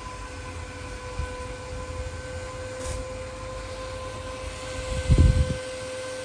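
A small electric motor running with a steady whine and airflow hiss. A dull knock comes about five seconds in.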